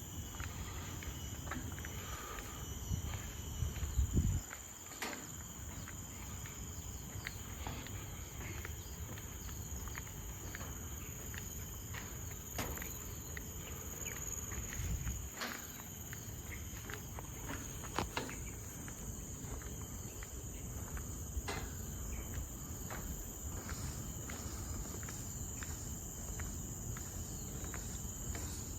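Forest insects trilling steadily at a high pitch, with the regular footsteps of someone walking on the trail, about one and a half steps a second. A brief low rumble about four seconds in.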